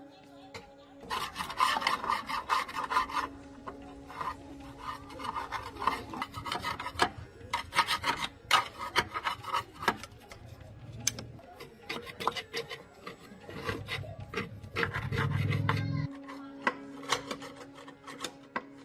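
Abrasive hand scraping strokes in uneven bursts, like filing or sanding a part, over a steady low hum.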